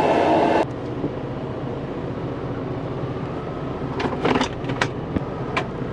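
Car-wash vacuum cleaners run loud, then cut off abruptly under a second in. After that a vehicle's steady low engine hum remains, with a few sharp clicks about four to five seconds in.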